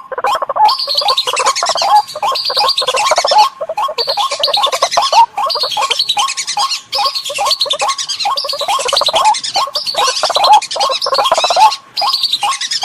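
Recorded bird lure calls: a dense, rapid chattering run of repeated call notes that goes on without a break until a short drop in level near the end.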